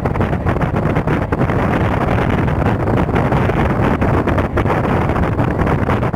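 Mumbai suburban electric local train running at speed, heard from on board: a steady rumble of wheels on rails with wind buffeting the microphone at the open doorway.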